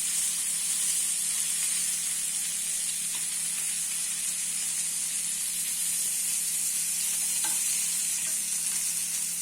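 A hot pan sizzling steadily as sugar is spread and melted in it for caramel, a continuous hiss over a low steady hum, with a faint tick about seven and a half seconds in.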